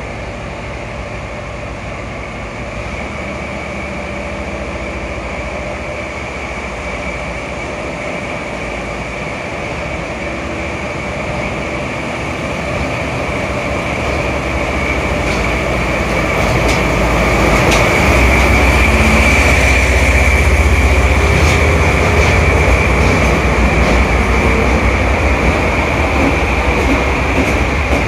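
A train pulling out of the station, its running noise building and growing louder through the second half. A steady high tone runs over the rumble.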